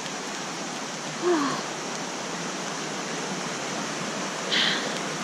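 Steady rushing water noise, rain and running water outdoors. About a second in a short, falling voice sound cuts through, and near the end there is a brief hiss.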